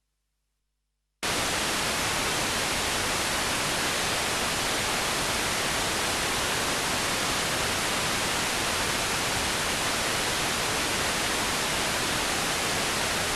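Near silence, then about a second in a loud, perfectly steady static hiss cuts in abruptly and runs on without change.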